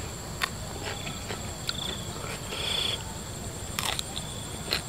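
Crisp bites and chewing of raw green vegetable stems, a few sharp crunches, over a steady high chirping of crickets with a longer buzzing trill about two and a half seconds in.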